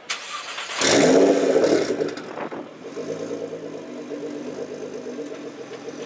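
Nissan GT-R R35's twin-turbo V6 heard at the exhaust. The engine flares loudly about a second in, its pitch falling as it settles into a steady idle.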